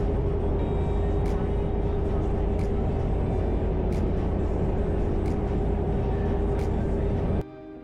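Isuzu Trooper on the move, heard from inside the cab: a steady engine and road rumble with a constant hum. It cuts off suddenly near the end as music takes over.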